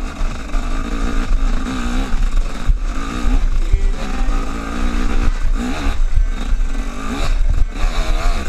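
Motorcycle engine revving up and down in short pulls, over a steady low rumble of wind on the microphone.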